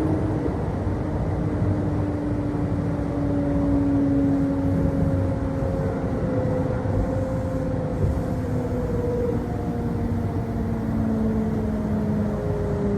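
Kintetsu Osaka Line local electric train heard from inside the car, slowing for a station: a steady rumble of wheels on rail under a motor whine that slowly falls in pitch.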